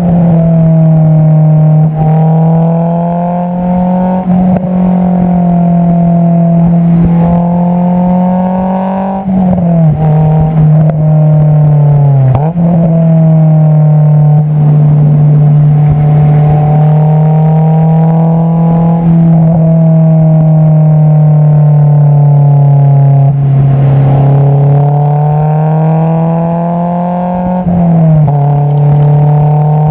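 Honda S2000's 2.2-litre four-cylinder heard through its Invidia Q300 cat-back exhaust at the tailpipe while driving. The pitch climbs slowly and drifts under steady throttle, then drops abruptly at gear changes about 9 and 12 seconds in and again near the end.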